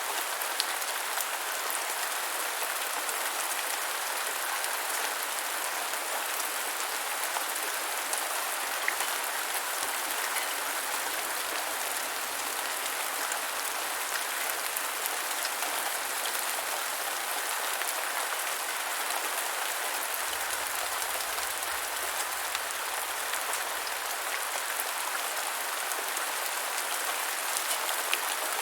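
Steady rain falling on the ground, an even patter with scattered sharper drop ticks.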